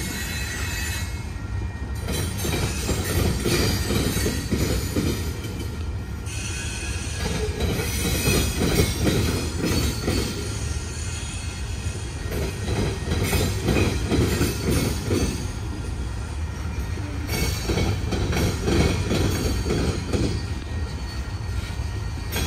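Norfolk Southern freight train's covered hopper cars rolling past at steady speed: a continuous low rumble of wheels on rail, with many irregular knocks and clatter from the wheels over the track.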